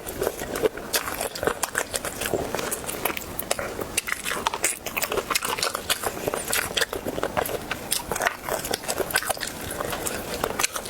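A person biting and chewing food, with many quick, irregular crunching clicks throughout.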